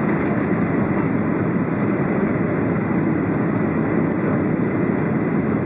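Steady roar of engine and airflow noise inside the cabin of a Boeing 737-700 airliner.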